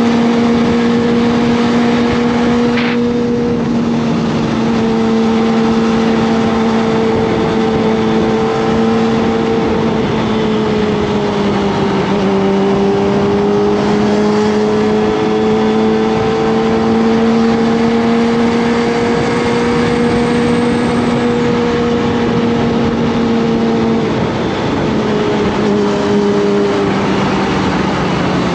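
Kawasaki ZX25R's 249 cc inline-four engine running while the bike is ridden, its note holding a nearly steady pitch with a couple of slight dips. Steady road and wind noise runs under it.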